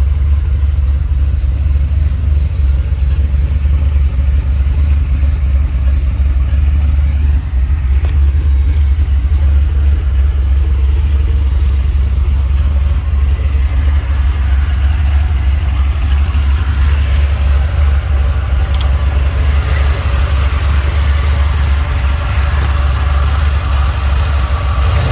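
Turbocharged LS V8 in a Ford F100 idling steadily after a cold start, a loud, deep, even idle.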